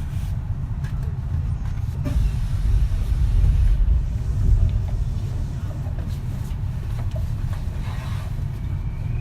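Running noise heard inside a Kintetsu 3220 series electric train: a steady low rumble of wheels on rail, swelling louder a couple of seconds in and easing back.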